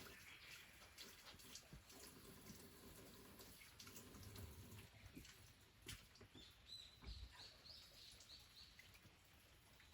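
Quiet rural ambience: a small bird gives a quick run of high, rising chirps a little past the middle, among scattered faint clicks and taps.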